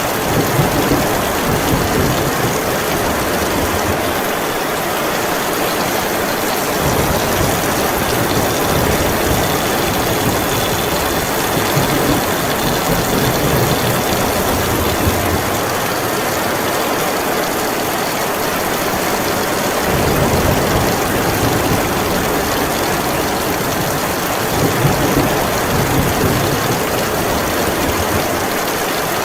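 Heavy rain pouring steadily, with deep rumbling that swells and fades several times underneath it.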